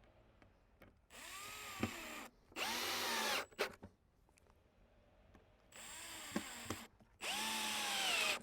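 Power drill driving screws into wooden boards, in two sets of two short runs. In each set a quieter run is followed by a louder one, and the motor's pitch dips and recovers as the screw bites and loads it.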